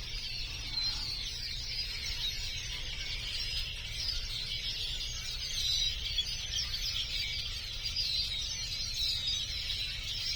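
A huge flock of birds calling and singing all at once: a dense, continuous chatter of countless overlapping chirps and whistles, so loud it was mistaken for the TV.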